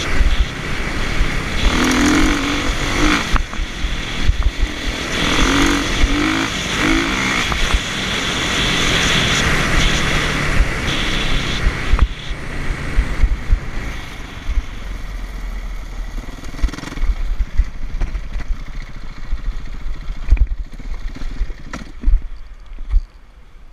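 Motocross dirt bike engine running and revving, louder in the first half and fading after about twelve seconds.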